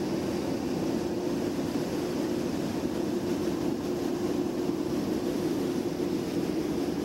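A freight train of tank wagons moving slowly while being shunted, with a small shunting locomotive at its end. It makes a steady, even rumble with a low hum.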